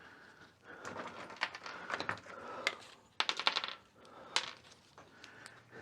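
Small metal engine parts and hand tools clinking and rattling together as pieces are taken off a VW Beetle engine, with a busy burst of metallic jingling about three seconds in and a sharp single clink just after four seconds.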